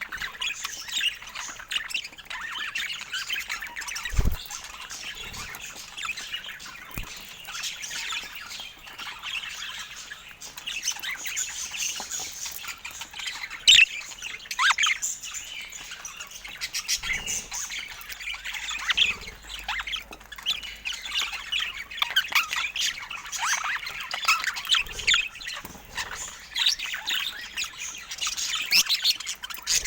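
Budgerigars chirping and chattering, many short squawks and twitters overlapping without pause, with a few low thumps.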